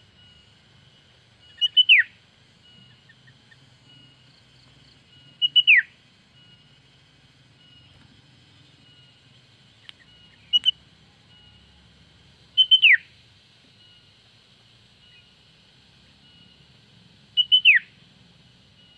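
Female sooty-headed bulbul calling: five loud calls a few seconds apart, each a couple of quick high notes ending in a sharp downward-sliding whistle. Faint, evenly repeated high chirps run underneath.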